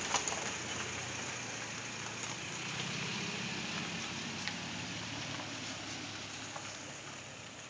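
Toyota Tacoma's engine running through a Magnaflow exhaust, a steady low exhaust rumble that grows fainter toward the end.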